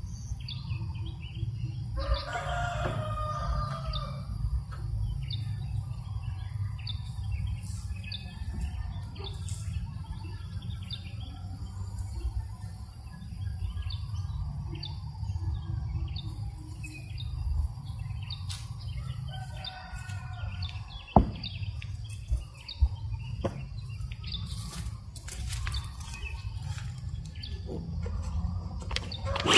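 Farmyard ambience: a rooster crows twice, early and again about two-thirds of the way through, over scattered small-bird chirps and a steady low rumble of breeze on the microphone. Two sharp clicks come shortly after the second crow.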